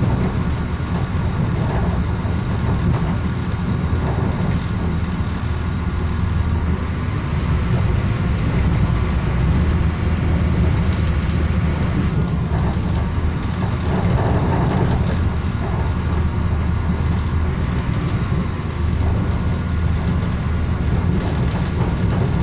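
Steady running noise of a moving passenger train heard from inside the carriage, a low rumble that holds even throughout.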